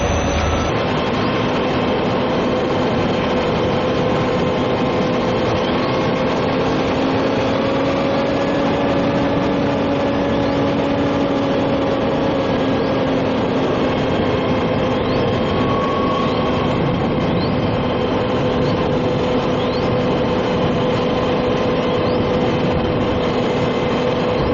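A heavy engine runs steadily, with a constant hum that wavers slightly in pitch over a rushing noise. It fits a diesel locomotive idling.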